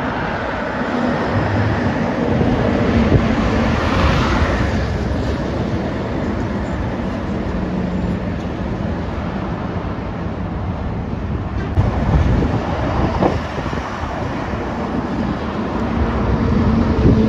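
Heavy trucks passing on a busy road: diesel engines and tyre rumble swell and fade as each goes by, with wind buffeting the microphone.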